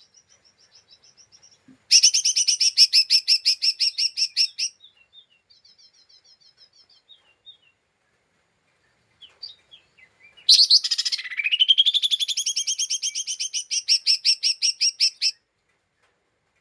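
Cucak ijo mini (a small leafbird) giving its fast chattering 'ngeriwik' call: two loud runs of rapidly repeated high notes, each a few seconds long, with softer twittering between them.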